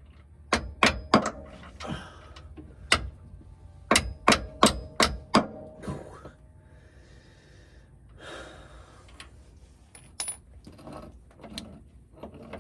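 Sharp metallic clicks and knocks from hand tools working a homemade bolt-and-socket puller that presses out a steering rack bushing. About a dozen come in the first six seconds, then quieter handling sounds follow.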